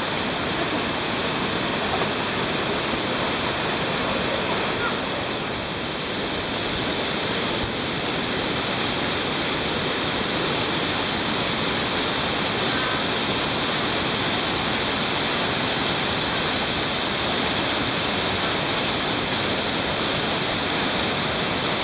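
Steady rush of flowing water from small cascades and a shallow stream.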